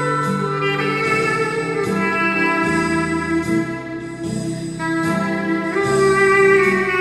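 Clarinet (a 13-key Weril Brasil) playing the slow melody of a hymn in sustained legato notes. Lower accompanying notes sound underneath.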